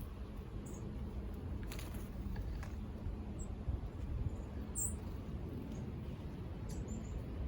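Outdoor ambience: a steady low rumble with a few faint, very short, high-pitched bird chirps, about three of them, and a couple of faint ticks.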